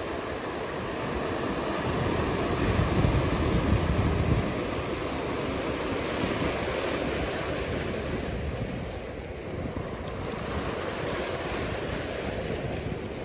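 Ocean surf washing steadily, with wind rumbling on the microphone; the wash swells louder a couple of seconds in, then eases.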